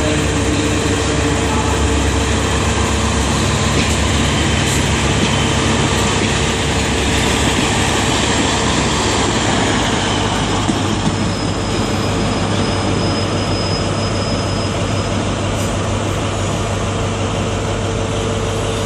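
Diesel passenger train to Exeter Central moving through the station, its engine running steadily under the rumble of wheels on the track. A thin high wheel squeal sounds for a few seconds in the second half.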